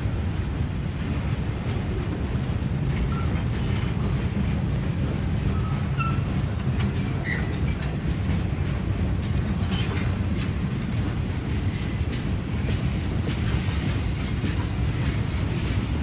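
Norfolk Southern freight train's boxcars rolling past at a steady speed: a continuous low rumble of steel wheels on rail, with scattered clicks.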